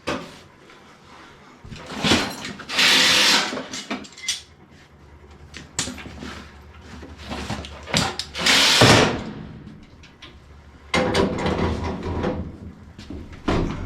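Hand work on a furnace cabinet: knocks and clanks, with two loud scraping rasps about a second long, a few seconds in and again near the middle, and a rough rattling scrape later on.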